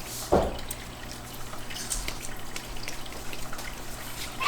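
Water gently splashing and dripping in a small room, with small clicks and one soft thump about a third of a second in.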